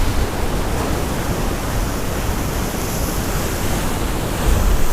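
Rough storm surf washing and breaking against a rock jetty, with wind buffeting the microphone; the low rush swells louder near the end as a bigger wave comes in.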